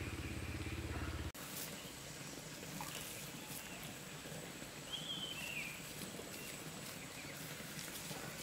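A low, steady hum that cuts off abruptly about a second in, followed by quiet outdoor ambience with a few short bird chirps and faint clicks.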